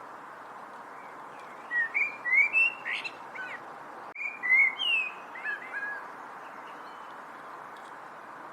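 A songbird singing two short phrases of quick whistled, slurred notes, with a brief pause between them, over a steady hiss of background noise.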